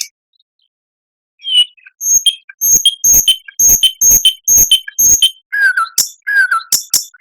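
Songbird song from a training recording: after about a second and a half of silence, short notes repeated about twice a second, then short falling whistles repeated near the end.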